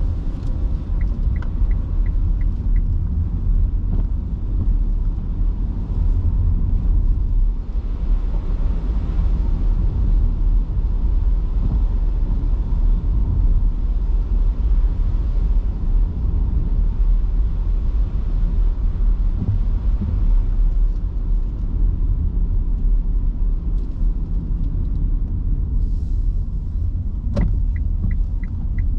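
Steady low road and tyre rumble inside an electric car's cabin, driving on wet streets in heavy rain. A brief run of evenly spaced ticks, about three a second, sounds near the start and again near the end, typical of a turn-signal indicator. A single sharp knock comes shortly before the second run.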